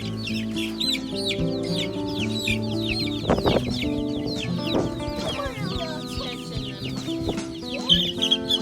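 A crowd of Rainbow Ranger meat-bird chicks peeping constantly, many short high chirps overlapping, over background music with held notes.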